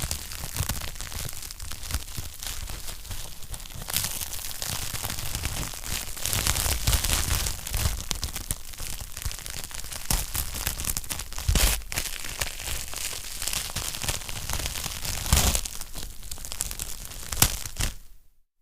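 Wood fire crackling in a fireplace: a dense run of small crackles with a few louder pops in the second half. The sound cuts out briefly near the end.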